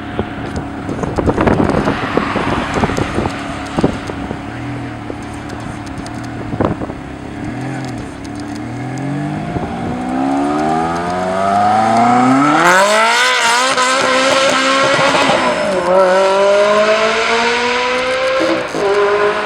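Ferrari 360 Challenge Stradale's V8 pulling away under full throttle: after running low with a few sharp knocks, the engine note climbs steadily to a loud, high wail, dips briefly at an upshift about two-thirds of the way in and climbs again, dropping once more near the end.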